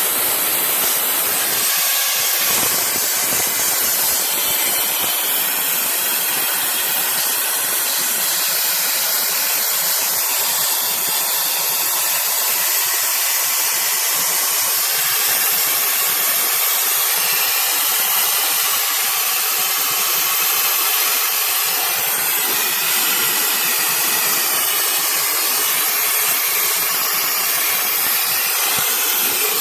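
Sandblaster firing 30–60 grit garnet abrasive with compressed air onto the steel of a car's engine bay: a loud, steady rushing hiss.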